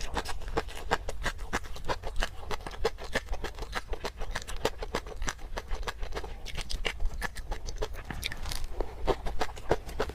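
Close-miked eating of garlic and peanut sauce: rapid, irregular mouth clicks and smacks of chewing, several a second.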